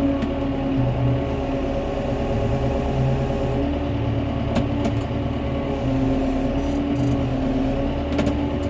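Tractor engine running steadily while handling a log, with a couple of sharp knocks part way through and near the end.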